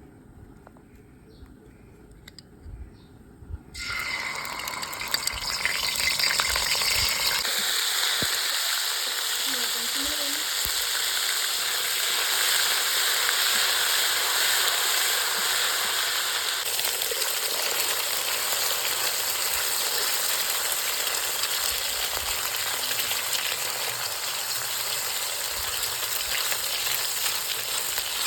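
Food going into hot oil in a pan about four seconds in, then frying with a steady, loud sizzle.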